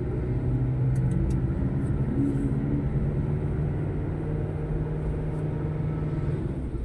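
Motor vehicle engine running steadily with a low road rumble, a steady hum that eases slightly near the end.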